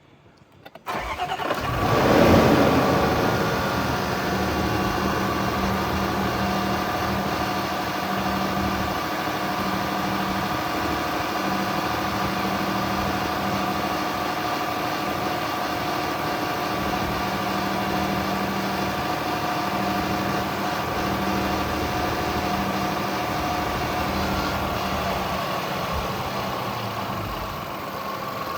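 2016 Land Rover LR4's supercharged 3.0-litre V6 starting from cold: a brief crank about a second in, a quick flare of revs, then settling into a steady idle, easing slightly lower near the end.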